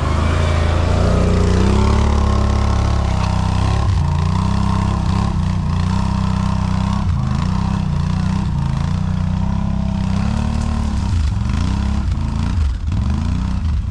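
Quad bike (ATV) engine running while being ridden, its revs rising and falling, with a few quick drops and rises in pitch near the end.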